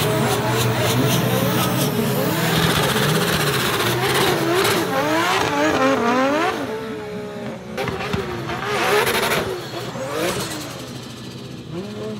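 A drift car's engine revs hard, its pitch swinging quickly up and down as the car slides. About seven seconds in the engine drops to lower, intermittent revs.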